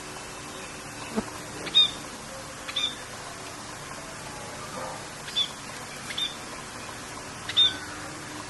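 Birds giving short, sharp chirps a second or two apart, about five in all, over a steady hiss of rain.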